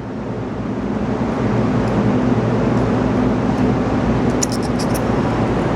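Steady mechanical background noise with a low hum, slowly growing louder, and a few faint clicks a little after the middle.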